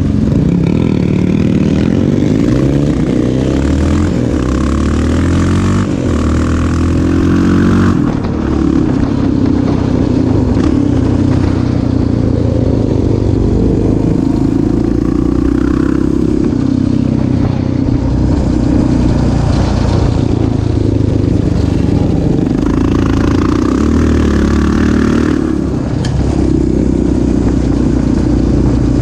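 Off-road vehicle engine being ridden hard, its pitch climbing as it revs and falling back again and again, with the throttle shut briefly about eight seconds in and again near the end.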